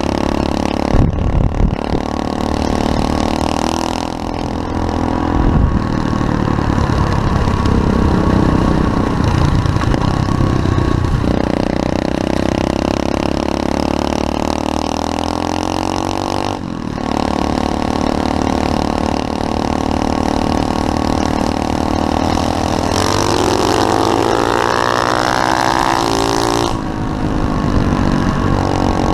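SSR 125cc pit bike's single-cylinder four-stroke engine being ridden hard, revving up and down in pitch. The engine note drops out briefly several times, about one second in, four seconds in, midway and near the end.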